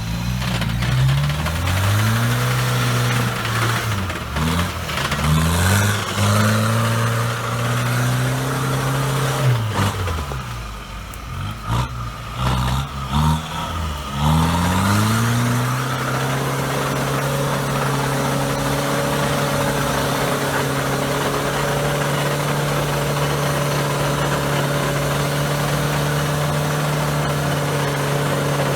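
Off-road vehicle's engine revved hard again and again, the pitch climbing and dropping several times, then held at steady high revs from about halfway through.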